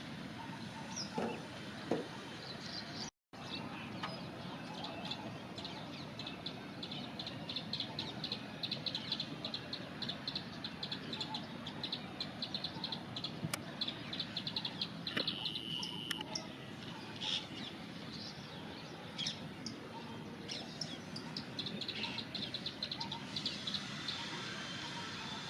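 Plain prinia singing: runs of rapid, short, high repeated notes lasting several seconds at a time, over a steady background hiss. The audio cuts out briefly about three seconds in.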